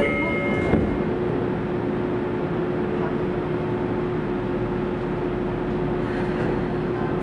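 Tokyo Metro 03 series train standing at a platform: a few short tones end within the first second, then a thump, then a steady electrical hum over a low rumble from the train's onboard equipment.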